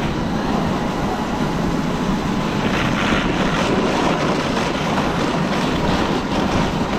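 Traxxas XRT electric RC truck running steadily while it tows a loaded sled over snow: a continuous rush of drive and tyre noise with a faint whine.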